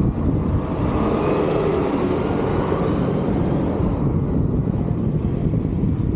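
Steady wind rumble on the microphone of a moving bike, with a car passing that swells and is loudest about two seconds in.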